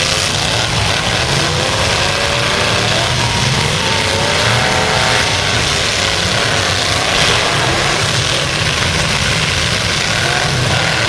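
Full-size pickup trucks' engines running and revving together in a demolition derby heat, a dense steady din with pitch rising and falling as they rev.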